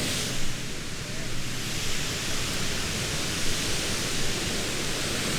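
Steady hiss of rushing water, even and without any rhythm.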